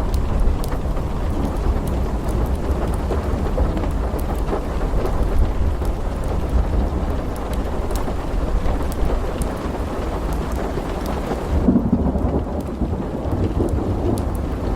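Thunderstorm ambience: steady rain over a continuous low rumble of thunder, dotted with small sharp ticks. About twelve seconds in the high hiss drops away and a deeper roll of thunder swells.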